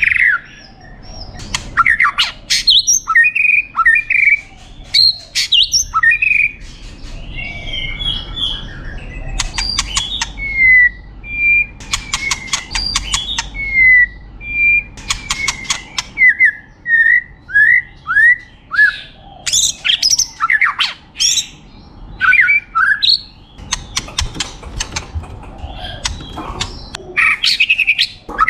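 White-rumped shama singing a varied, loud song. Clear whistled notes slide up and down in pitch, mixed with fast, dry rattling trills, in short phrases separated by brief pauses.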